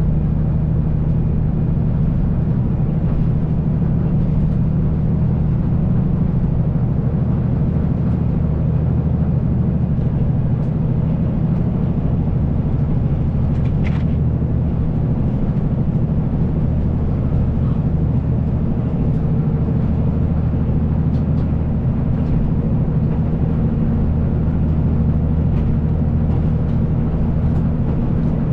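Kiha 185 series diesel railcar running steadily at speed: a continuous diesel engine drone with wheel-on-rail rumble.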